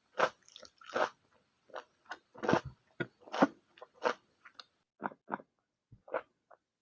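Close-miked chewing and biting of food: a run of short, separate mouth sounds about two a second, softer in the last two seconds.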